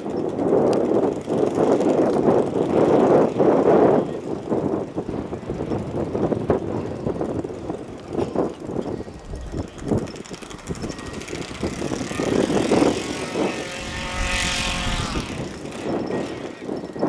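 Model aircraft engine running, mixed with rough wind and handling noise on the microphone; a pitched engine tone swells up about thirteen seconds in and fades by about fifteen and a half seconds.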